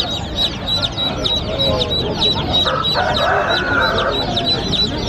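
A brood of baby chicks peeping nonstop: many short, high, falling chirps overlapping several times a second. A rougher, lower sound joins from about two and a half to four seconds in.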